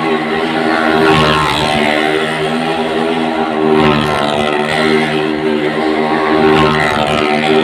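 Motorcycle engine running at a steady speed, its pitch holding nearly level throughout.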